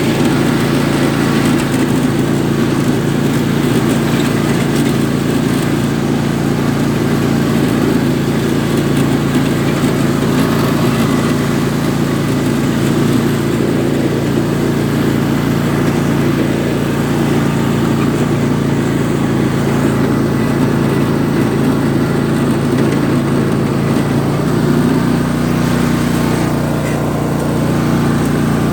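Riding lawn tractor's small engine running steadily, its pitch rising slightly about 25 seconds in.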